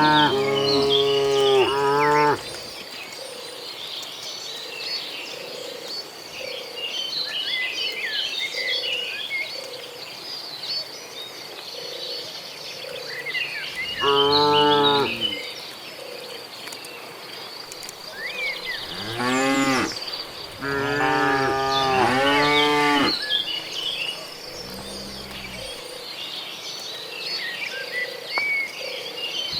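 Cattle mooing, several long calls from the herd: one right at the start, another about halfway through, and two or three more close together in the last third.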